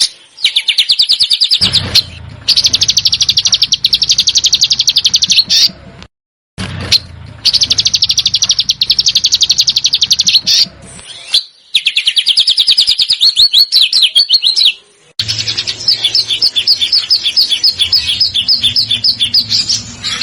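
A small songbird's rapid, harsh trill: the 'besetan' type of song used as masteran for competition birds. It comes in bursts of a few seconds with short gaps, and the last burst is slower, at about five notes a second.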